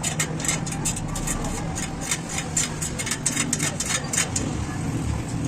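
Rapid, irregular metallic clicks and taps of hand tools working on a motorcycle wheel, several a second, over a steady low hum of traffic.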